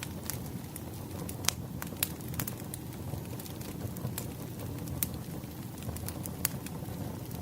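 Firewood fire burning, with irregular sharp crackles and pops over a steady low rumble of flames.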